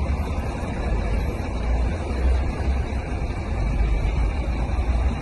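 Steady motor-vehicle noise: a low, uneven rumble under a constant road hiss, with no crash or impact.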